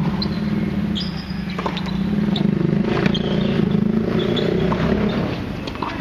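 A steady low motor hum, like an engine running, easing off about five seconds in, with short high chirps and a few sharp clicks over it.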